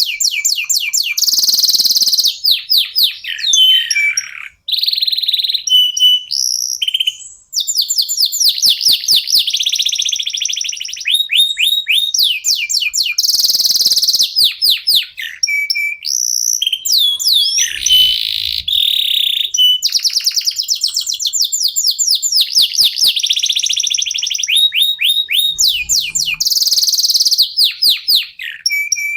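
Domestic canary (Indonesian local strain) singing continuously: fast trills of repeated sweeping notes, buzzy rolls and short whistled notes, pausing briefly twice early on before carrying on.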